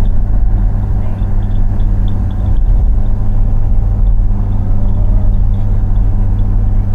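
A car driving along: a steady low engine hum and road rumble.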